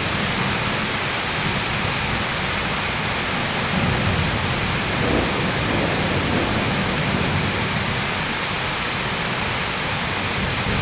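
Steady heavy rain with low rolling thunder that swells about four to six seconds in.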